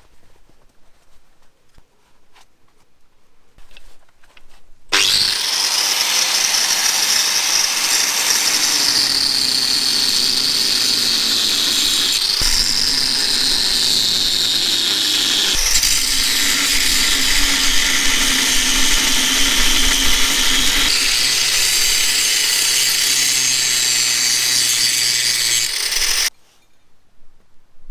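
Angle grinder cutting into a rusted, seized lower strut mounting bolt. It starts about five seconds in, runs steadily for about twenty seconds and stops suddenly near the end. Its pitch drops as the disc bites into the steel and picks back up when the load eases.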